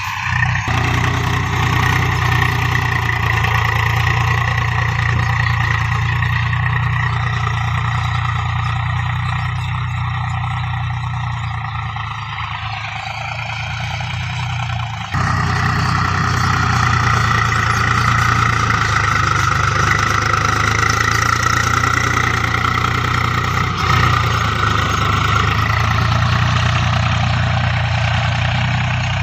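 Tractor's diesel engine running steadily while pulling a plough through a field. The sound changes abruptly about halfway through.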